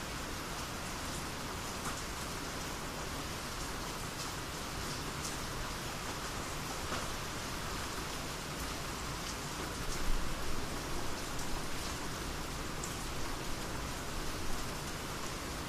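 Steady rainy-season rain falling on surfaces, a continuous hiss with scattered sharp drop impacts and a few louder splashes partway through.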